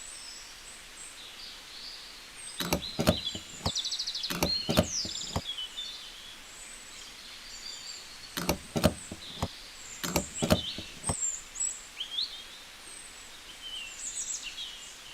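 Small birds chirping over quiet outdoor background noise, broken by two runs of sharp knocks or taps, about six in each run: one starting a few seconds in and one about halfway through.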